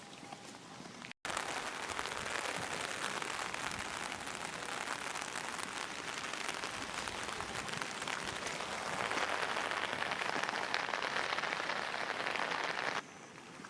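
Heavy typhoon rain falling in a dense, steady hiss, starting abruptly after a cut about a second in and stopping abruptly near the end.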